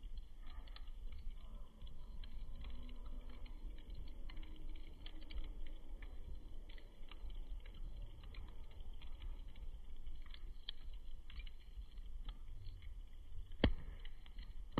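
Wood campfire crackling: scattered small pops and snaps throughout, with one sharp, louder pop near the end.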